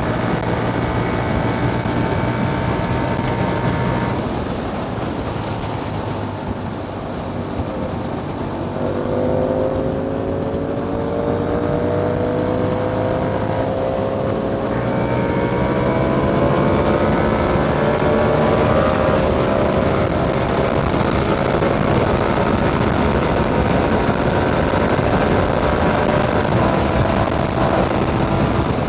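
2021 KTM Duke 890R parallel-twin engine through a catless Austin Racing GP1R exhaust, ridden hard. It holds steady revs, drops off when the throttle closes about four seconds in, then pulls up with slowly rising pitch before settling into a loud steady run.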